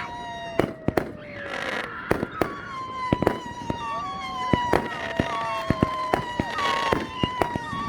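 Fireworks display: a rapid, uneven string of bangs and crackles, with several long whistling tones overlapping and slowly falling in pitch.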